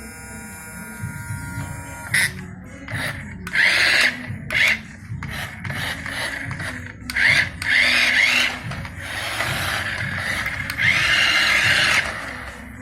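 Radio-controlled truck's electric motor and gearbox whining in repeated bursts of throttle, several rising in pitch as it works under load.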